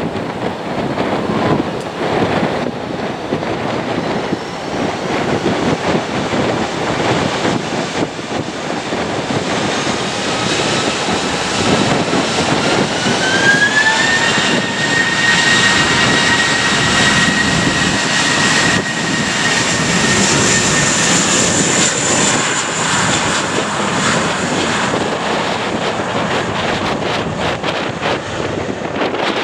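Jet airliner engines running loud, their whine rising sharply about halfway through and then holding steady at high thrust, with wind buffeting the microphone.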